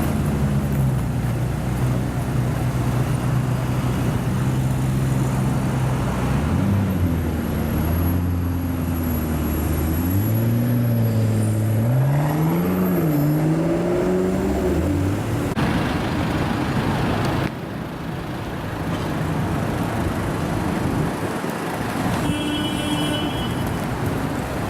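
A sports car's engine idling steadily, then revved several times, its pitch rising and falling, over street traffic noise.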